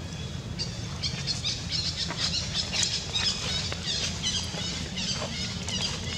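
Birds chirping in quick, dense runs of short high notes, over a steady low rumble.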